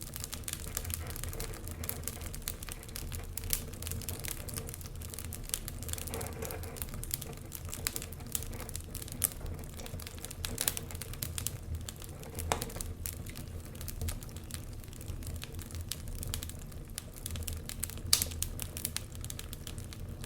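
Wood fire crackling in a fireplace: irregular snaps and pops over a low steady rumble, with a sharper pop near the end.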